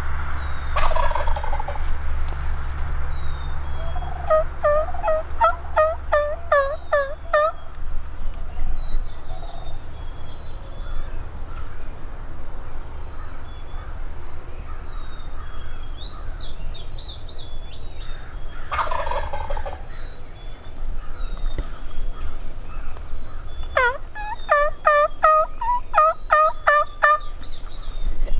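A wild turkey gobbler gobbling twice, each gobble a fast rattling run of notes lasting about three seconds, the first about four seconds in and the second near the end. A shorter high-pitched chirping run from another bird comes in between.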